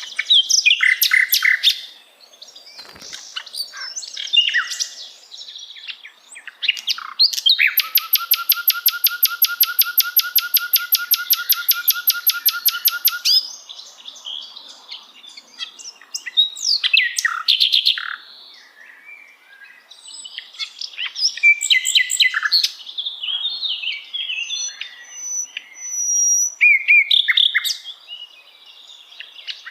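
Common nightingale singing: a varied run of whistled phrases and chirps, with a long, fast trill of evenly repeated notes lasting about six seconds in the middle.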